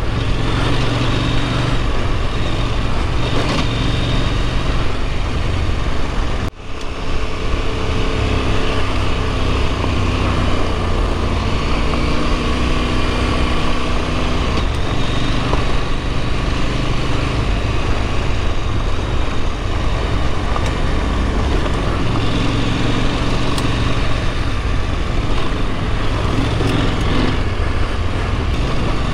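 Husqvarna Norden 901's parallel-twin engine running under way at speed on a gravel track, mixed with steady wind and tyre noise. The sound drops out for a moment about six and a half seconds in.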